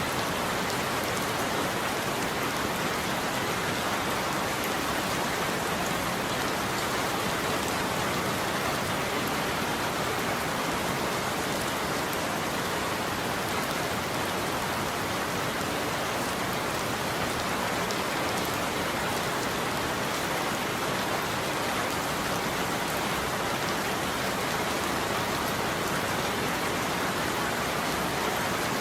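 Steady heavy rain falling on a surface, an even patter with no thunder and no change in level.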